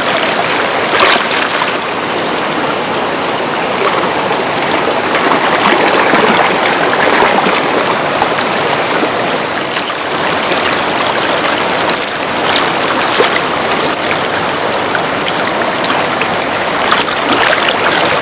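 Fast mountain river rushing over rocks: a loud, steady roar of churning water with small splashes through it.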